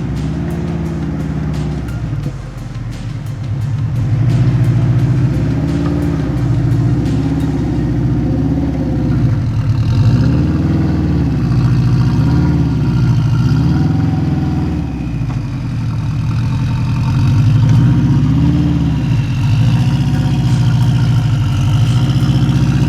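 Turbocharged Subaru EJ205 flat-four engine of a Saker RapX race car, running at low speed with the throttle blipped over and over, so its pitch rises and falls every second or two as the car is eased along.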